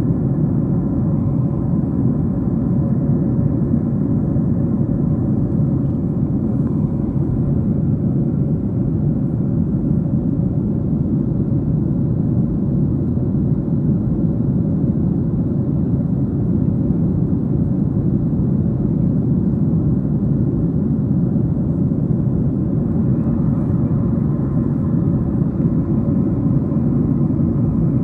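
Steady cabin noise of a Boeing 737-700 in flight, heard from a window seat: a low rumble of airflow and CFM56-7B engines, with a few faint steady engine tones over it.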